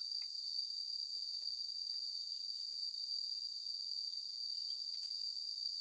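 A steady, high-pitched chorus of insects, crickets or cicadas, shrilling without a break. A few faint light ticks sound here and there under it.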